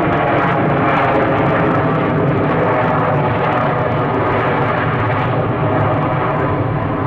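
Jet airliner's engines, a loud steady rush of noise that eases slightly in the last seconds.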